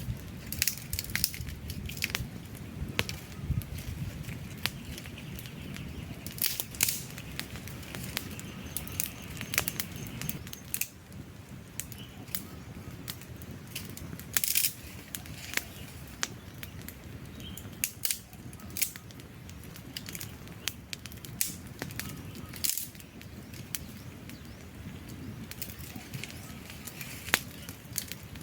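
Wood campfire burning, with a steady low rumble of flames and frequent irregular sharp crackles and pops from the logs.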